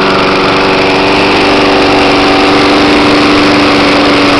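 Briggs & Stratton 4 hp single-cylinder engine on a walk-behind lawn mower running steadily at constant speed, fuelled by propane.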